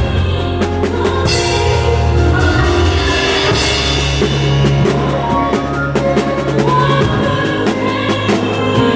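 Worship music from a band: a drum kit beat with bass drum and snare over sustained bass notes, with a cymbal wash about a second in.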